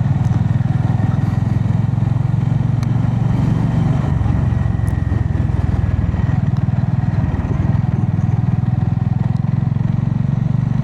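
Honda GB350S single-cylinder engine running steadily as the motorcycle rides along, its firing pulses forming an even, low drone with road and wind noise.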